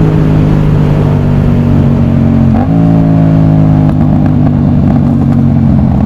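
Yamaha MT-07's CP2 parallel-twin engine running under way through an aftermarket exhaust, at a steady engine speed. About two and a half seconds in, the note dips briefly and then steps up slightly.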